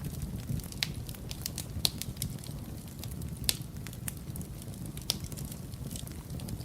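Wood fire burning in a fireplace: a steady low rumble of flame with irregular sharp crackles and pops, the loudest pops about two seconds and three and a half seconds in.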